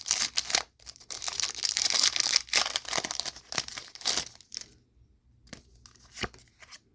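Foil wrapper of a Pokémon trading card booster pack being torn open and crinkled for about four and a half seconds, followed by a few light clicks.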